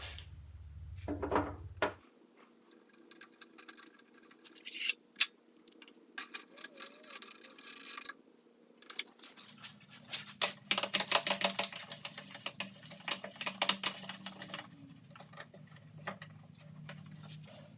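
Irregular clicking and clattering of metal parts and hand tools being handled while reassembling a table saw, coming in quick clusters that are busiest in the middle stretch, over a low hum.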